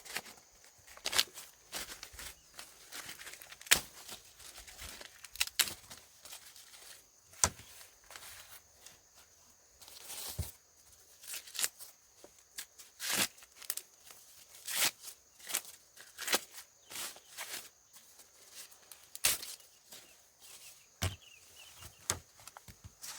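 Dry corn plants rustling and tearing, with irregular sharp snaps, as ears of corn are picked by hand.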